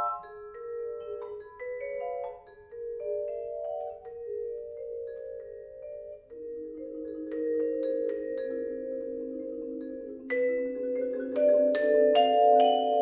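Vibraphone and two marimbas playing sparse, ringing mallet notes. Lower notes come in and hold from about six seconds in, and the strikes grow louder and more frequent near the end.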